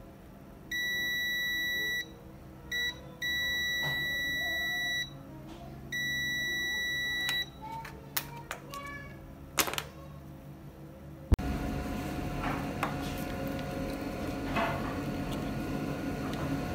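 Multimeter continuity buzzer beeping in stretches of uneven length as the probes make and break contact, a steady high-pitched beep. A few sharp clicks follow, and about 11 seconds in a louder steady noise with a faint hum starts abruptly.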